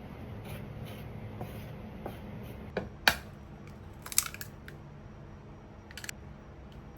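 Kitchen scissors snipping through chicken, a series of sharp snips and clicks. The loudest comes about three seconds in, a quick cluster follows just after four seconds, and one more comes near six seconds, over a steady low hum.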